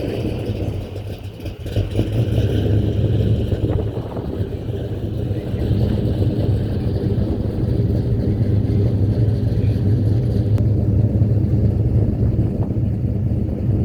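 Car engine running steadily close by, a low, even sound throughout.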